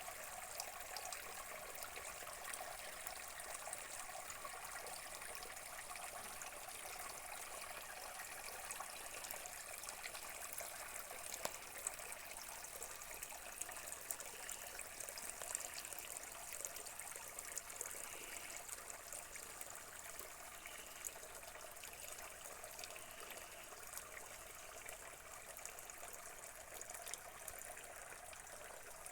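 Small stream trickling steadily, a continuous light splashing of running water.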